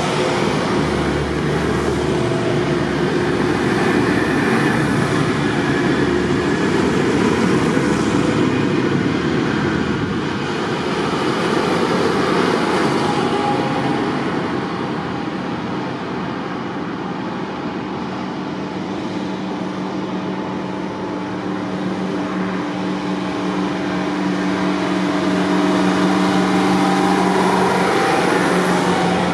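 Tractor engines running steadily, with a noisy rush of motion and a held engine note that comes up strongly in the second half.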